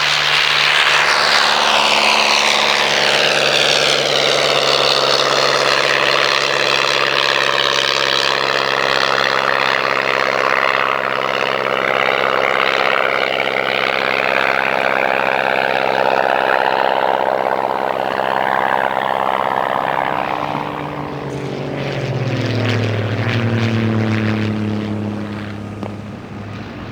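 Miles Messenger's 140 hp de Havilland Gipsy Major four-cylinder piston engine and propeller, running steadily as the aircraft flies past. Late on, the engine's pitch drops and the sound fades as it moves away.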